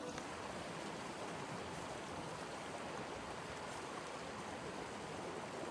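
Steady rushing of water, an even hiss with no change in level.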